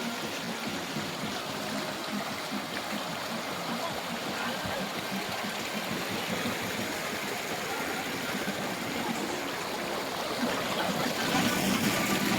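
Steady rushing of flowing water, growing a little louder near the end.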